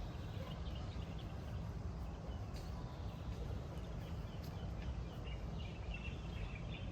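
Faint morning birdsong, scattered chirps that come more often near the end, over a steady low outdoor rumble.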